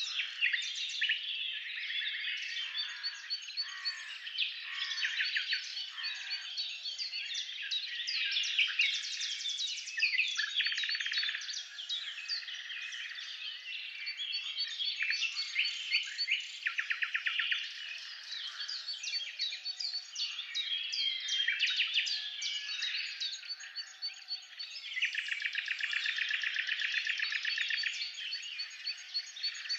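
Several birds singing at once: a dense chorus of overlapping chirps, whistles and rapid trills that never lets up.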